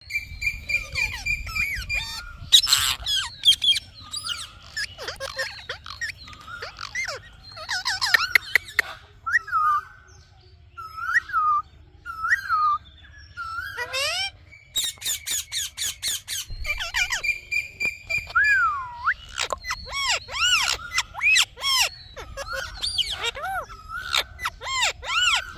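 Indian ringneck parrot calling: a string of chirps, whistles and squawks that glide up and down in pitch, with a few held whistle notes and a quick repeated run of arched calls near the end.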